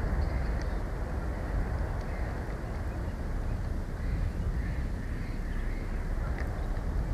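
A corvid calls a few times about four to five seconds in, over a steady low rumble.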